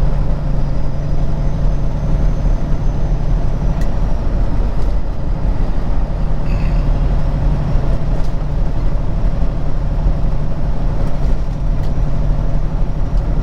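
Semi truck's diesel engine and road noise heard inside the cab while driving at highway speed: a steady low drone with no change in pace.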